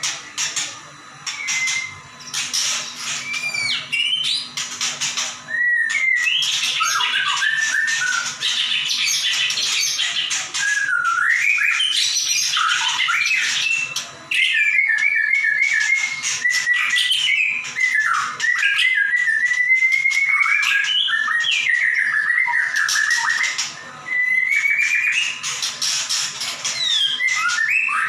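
White-rumped shama (murai batu) singing in full, nearly unbroken song: clear whistled notes and sliding phrases mixed with dense runs of rapid, high, sharp notes, the piercing 'nembak' delivery of a bird in top singing form.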